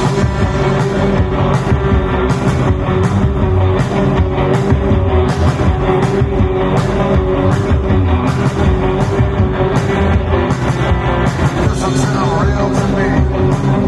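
Rock band playing an instrumental passage: electric guitar and drum kit, with cymbal hits keeping a steady beat.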